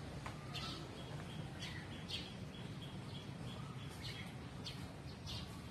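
Small birds chirping: short, sharp high calls scattered throughout, with a run of quick evenly spaced notes in the first half. A low steady background rumble sits underneath.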